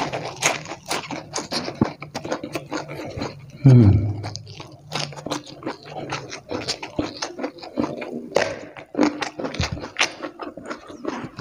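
Close-miked chewing and crunching of a hand-eaten rice meal with crispy fried egg and raw vegetables, a steady stream of irregular crunches and wet mouth sounds. About four seconds in, a short falling-pitched vocal sound from the eater is the loudest moment.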